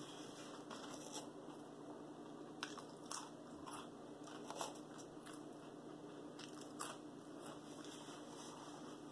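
A person eating a hamburger and fries, faint chewing with scattered sharp crunches and mouth clicks, the loudest about three seconds in and again about four and a half seconds in.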